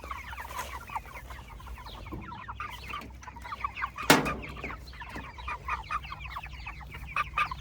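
A flock of Cornish cross meat chickens chirping and clucking continuously, many short overlapping calls. A single sharp knock about four seconds in.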